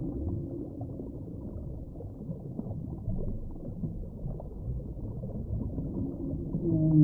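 Underwater ambient noise, a steady low rushing hiss with faint crackles, in a pause between whale calls. Near the end a whale call begins with a rising tone.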